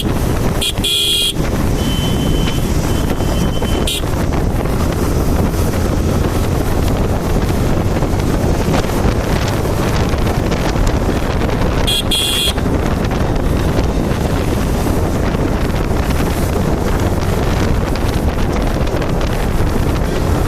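Wind buffeting the microphone over the steady running of a motorcycle on the move. A vehicle horn toots briefly about a second in and again about twelve seconds in.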